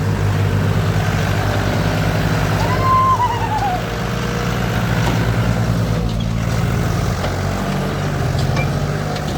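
Diesel tractor engine running hard as it tries to pull a loaded trolley that is stuck in mud, its note shifting a little as it works. A short high-pitched sound rises and falls about three seconds in.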